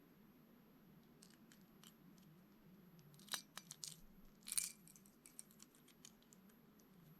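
A crankbait lure and its packaging being handled: scattered light clicks, with a sharp click a little past three seconds in and a short rattle about a second later.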